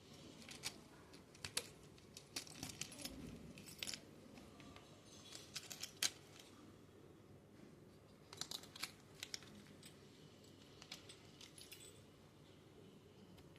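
Light, irregular clicks and taps of small hard parts and tools being handled, in scattered clusters with the sharpest click about six seconds in.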